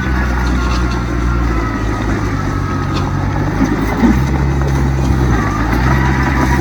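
Heavy diesel earthmoving machinery running steadily under load, the engine note stepping up and down in pitch a few times, with a brief louder knock about four seconds in.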